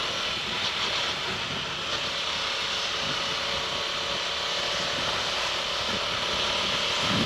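KTM Duke 200 single-cylinder motorcycle under way: a steady rush of wind and road noise with the engine running underneath at an even speed.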